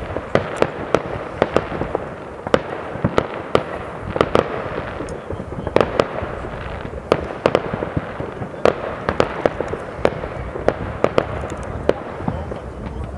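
Many distant fireworks going off across a town at once: an irregular, near-continuous run of bangs and pops, several a second, over a steady wash of noise.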